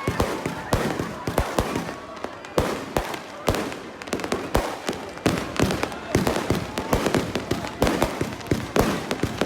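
Fireworks going off in a rapid, irregular series of sharp bangs, several a second, over the murmur of a crowd.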